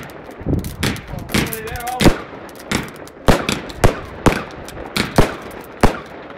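Consumer home fireworks going off as a quick series of sharp bangs, nearly two a second, as their shells burst overhead. A brief wavering tone comes between the bangs about one and a half seconds in.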